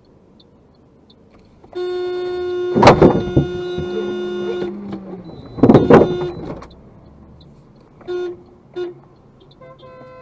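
Car horn held for about three seconds, with two loud noisy bursts over it, then two short honks and another horn blast near the end. It sounds as a warning at another driver's manoeuvre on the road.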